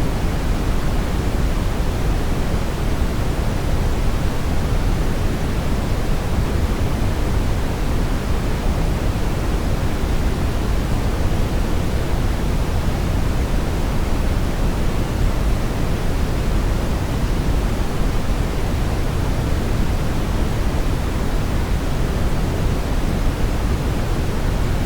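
Steady brown noise: a deep, even rushing hiss, strongest in the bass and fading off toward the highs, unchanging throughout.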